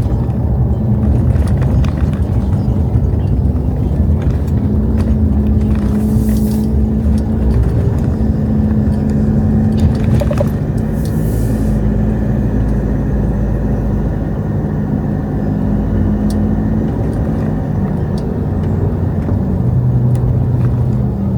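Motor vehicle engine running steadily with a low rumble, with two brief hisses about 6 and 11 seconds in.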